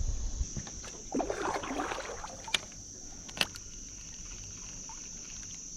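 Crickets chirring steadily, with water and kayak sounds about a second in and two sharp clicks near the middle.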